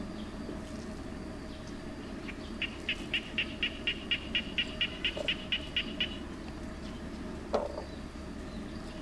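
A bird calling: a run of about fifteen quick, evenly spaced high notes, some four a second, lasting about three and a half seconds, over a steady outdoor background. Near the end there is one short falling note.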